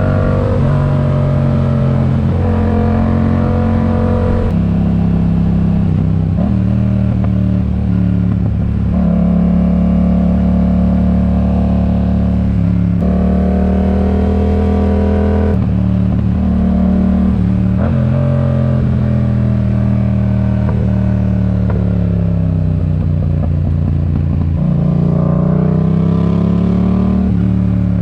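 Yamaha MT-07's parallel-twin engine through a RoadsItalia aftermarket exhaust under way. The note climbs as it accelerates and drops at several gear changes, eases off about two-thirds in, then pulls up again near the end.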